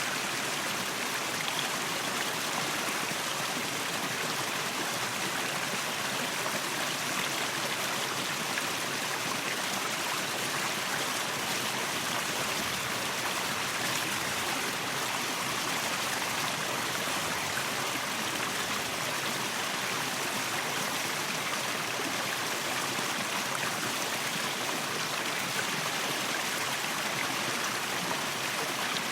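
A waterfall: a steady rush of falling water with no breaks.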